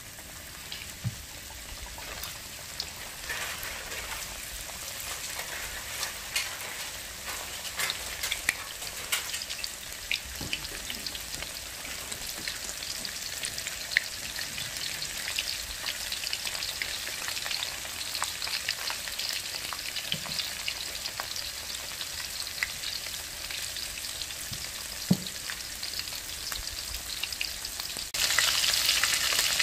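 Flour-coated chicken pieces deep-frying in hot oil in a wok: a steady sizzle with scattered crackles and pops, growing as more pieces go in. It jumps suddenly louder near the end.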